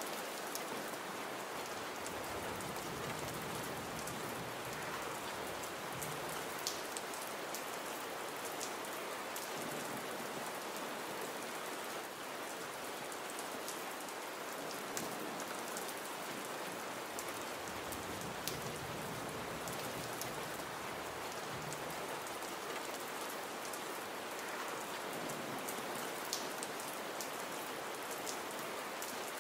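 Steady gentle rain falling on a surface: an even hiss with scattered sharper drop ticks.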